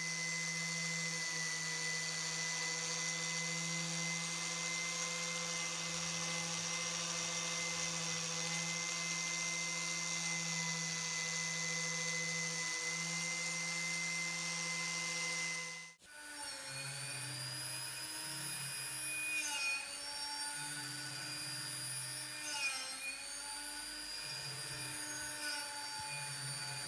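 Electric power tool motor running at a steady pitch, stopping abruptly about sixteen seconds in, then running again with several brief dips in pitch as it is loaded.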